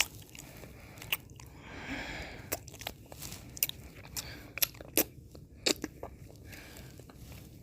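Close-miked mouth sounds of eating ice cream: scattered wet smacks and clicks, with a longer licking sound about two seconds in.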